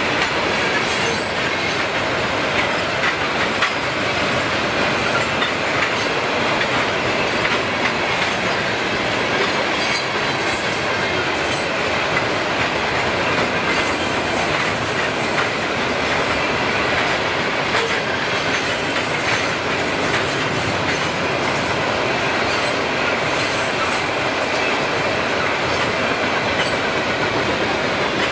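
Railroad cars rolling past: a steady rumble of steel wheels on rail, with clicking over rail joints and high wheel squeal that comes and goes.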